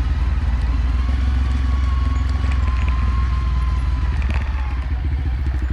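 Motorcycle engine running at low revs on a slow off-road descent, an even rapid pulsing over a deep steady rumble, with a faint thin whine for a few seconds in the middle.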